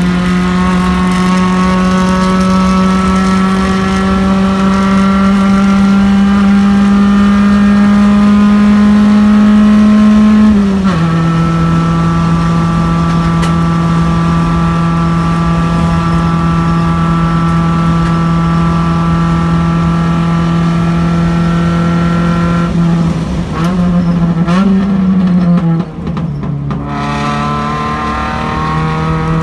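Race car engine heard from inside the car at full throttle, its note climbing slowly, then dropping sharply at an upshift about ten seconds in and holding steady at high speed. Near the end the note wavers and jumps as the car brakes hard and downshifts, then it climbs again as the car accelerates out of the corner.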